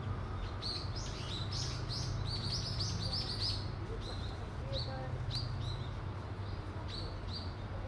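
Small birds chirping: a quick run of short, high, down-slurred notes, thick in the first few seconds and more scattered after, over a steady low hum.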